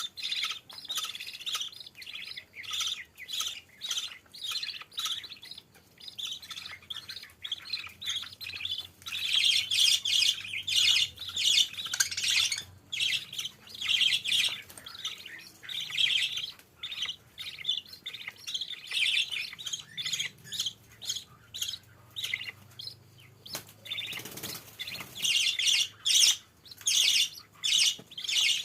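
A mother bird and her chicks chirping: short, high-pitched chirps coming in quick, repeated runs.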